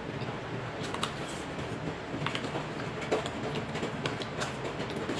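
Close-miked chewing and mouth sounds of someone eating: a scatter of short, irregular clicks and smacks over a steady low background rumble.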